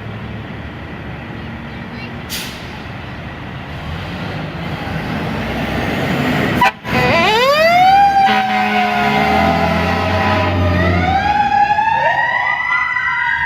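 Fire engine pulling out of the station, its engine getting louder, with a short hiss about two seconds in. About seven seconds in its siren winds up fast from a low pitch and then slowly falls. A second rising and falling siren tone joins near the end.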